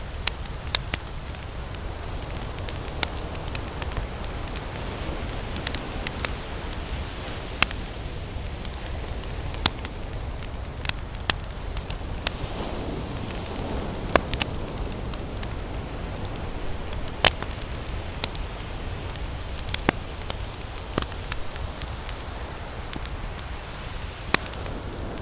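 Wood campfire crackling: irregular sharp pops and snaps, several loud ones spread through, over a steady low rumble.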